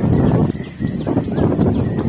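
Wind buffeting the microphone in uneven low rumbles, with birds chirping and a steady high insect tone behind.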